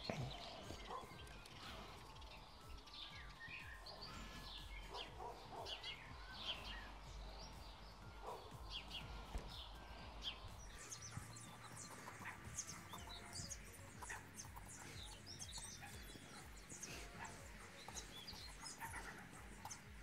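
Small birds chirping faintly, many short chirps that come more often in the second half.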